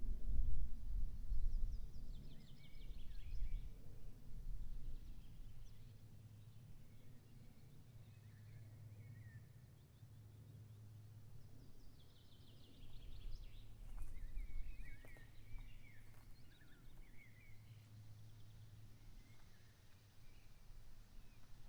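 Wild songbirds singing in short phrases, some way off, over a steady low rumble. The birdsong is loudest and busiest about two-thirds of the way through.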